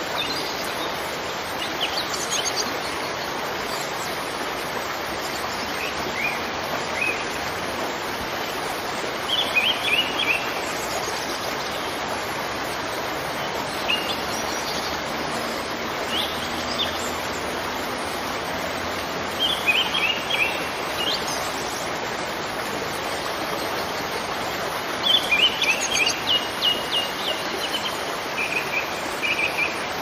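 Birds chirping in short clusters of quick, high notes every few seconds, busiest near the end, over a steady rushing hiss.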